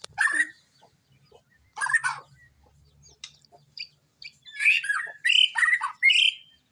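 White-rumped shama singing in short bursts of quick whistled and chattering notes, with a busy run of song near the end.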